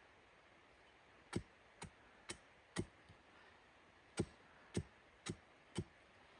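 Eight sharp knocks in two runs of four, about two a second, with a short pause between the runs.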